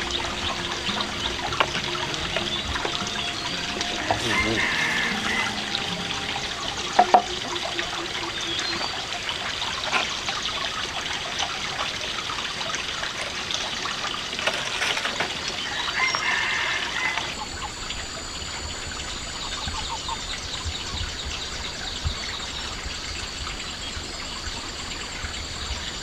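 Water trickling, with scattered small clicks and knocks and a sharp double knock about seven seconds in; the sound thins out and changes just past halfway.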